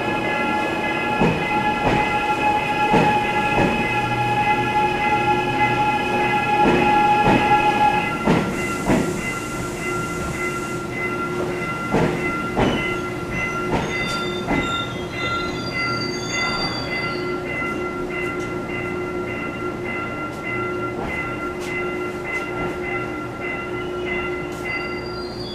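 Gwangju Metro Line 1 1000-series subway train running into the station and slowing: its wheels clack over rail joints, the clacks coming further apart as it slows, over a steady high whine that changes about eight seconds in.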